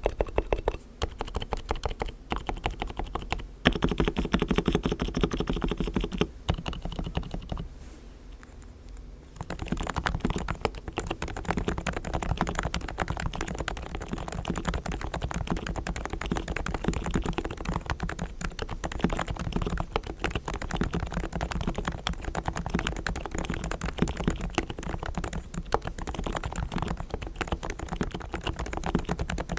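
Fast, continuous typing on a Realforce R3 tenkeyless with silent 45 g equal-weight Topre electrostatic capacitive switches, its sliders, springs and stabilizers lubed with Krytox. The typing slackens briefly about eight seconds in, then carries on steadily.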